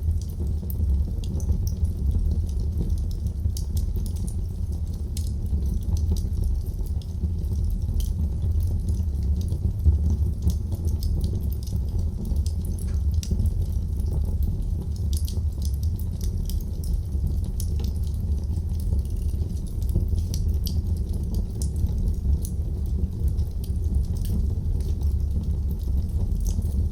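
Wood fire crackling in a fireplace: frequent small, irregular pops and snaps over a steady low rumble, with one louder pop about ten seconds in.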